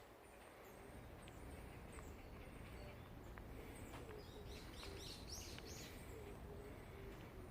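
Small birds chirping faintly in a forest, with a quick cluster of high chirps around the middle, over a low steady background rumble.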